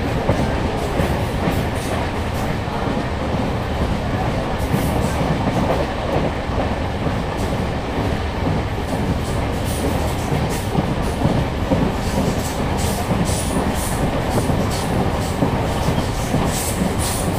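Train running along the track: a steady rumble of wheels on rail with frequent short clicks and clacks, which come more often in the second half.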